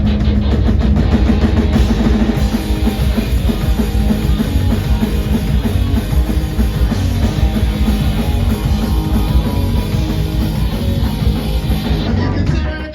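Live punk rock band playing a fast song loud, with drum kit and electric guitar, kicking in hard at the start and dropping off sharply near the end.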